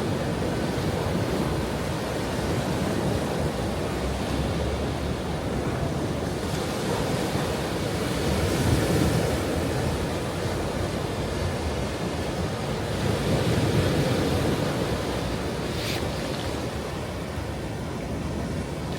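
Ocean surf washing on a shore: a steady rush of breaking waves that swells twice. There is a brief tick about sixteen seconds in.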